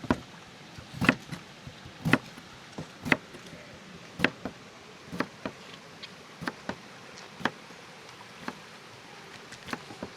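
A series of sharp clicks and knocks at uneven intervals, roughly one to two a second, over a faint background.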